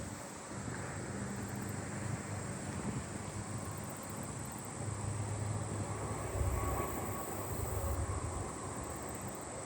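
Low rumble of a distant engine, swelling a little partway through, under a steady high drone of insects.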